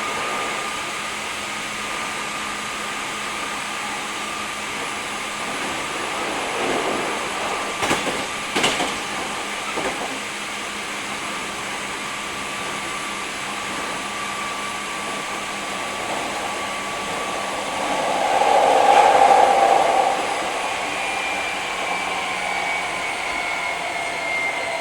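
Hankyu 3300 series electric train heard from inside the car while running: a steady motor and wheel hum, with a few sharp clicks of the wheels over rail joints. About three-quarters of the way through comes a louder rush lasting a couple of seconds. Near the end a whine falls gently in pitch.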